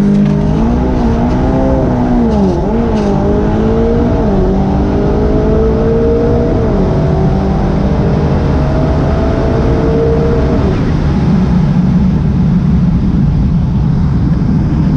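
Big-turbo Audi TTS's turbocharged four-cylinder engine, heard from the cabin, launching hard from launch control and pulling at full throttle through the gears. The pitch climbs in each gear and drops with each quick dual-clutch (DSG) upshift. About two-thirds of the way through the driver lifts off and the engine note gives way to wind and road noise at high speed.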